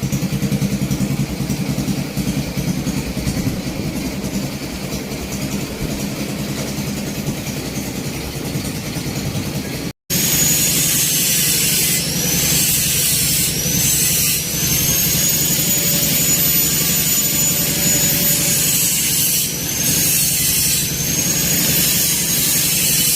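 Small engine of a miniature Willys jeep running steadily. After a sudden cut about ten seconds in, it runs on with a high whine that rises and falls in pitch.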